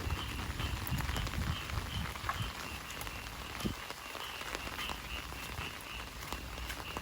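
Steady heavy rain hissing and pattering, with frogs croaking in a fast, regular rhythm. Low thuds of footsteps on wet ground in the first couple of seconds, then fading.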